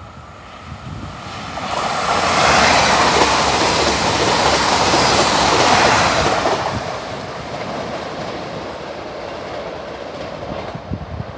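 A train passing by on the rails. The noise builds about a second and a half in, is loudest for about four seconds, then dies down as it goes away.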